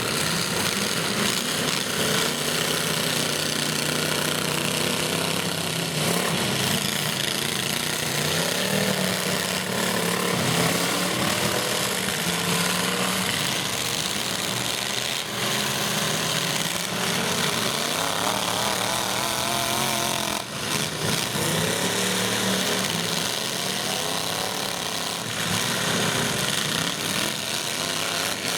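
Several demolition derby trucks' engines running and revving loudly together, their pitches wavering up and down throughout.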